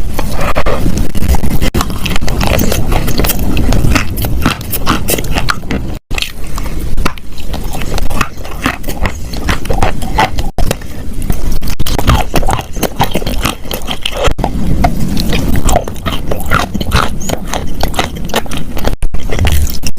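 Wet chalk being crunched close to the microphone: a dense, uneven run of gritty crackles and scraping, broken by a few sudden short gaps.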